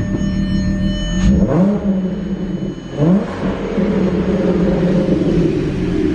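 Volkswagen R32's 3.2-litre VR6 engine running, its pitch rising twice, about a second and a half in and again about three seconds in, then running steadily at a raised speed.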